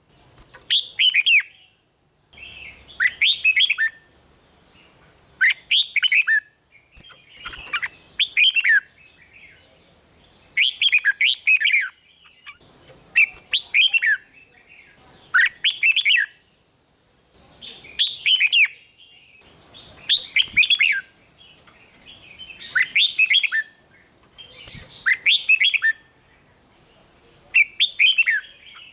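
Red-whiskered bulbul singing: short phrases of a few quick whistled notes, repeated about every two and a half seconds, around a dozen times. A thin steady high-pitched tone runs faintly behind the song.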